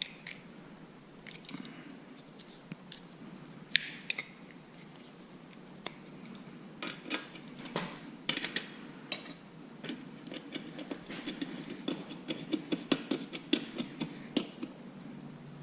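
Metal hand tools clinking and scraping on a motorcycle exhaust bolt as it is tightened. Scattered clicks at first, then a quicker run of clicks in the second half.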